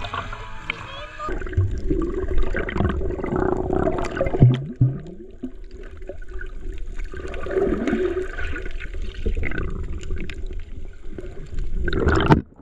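Water splashing and sloshing, uneven swells of noise with a steady hum running underneath.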